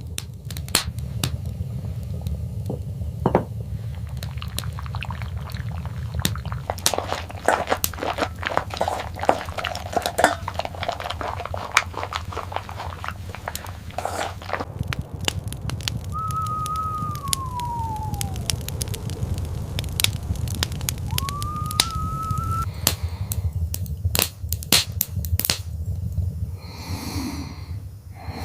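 Dense small clicks and crackles over a steady low rumble. Two drawn-out whine-like tones break through in the middle: one falls, and a few seconds later one rises and holds.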